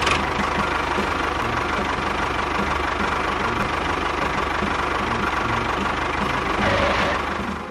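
Small motor of a DIY mini tractor running steadily with a constant whine and a rattling hum, with a short louder patch near the end.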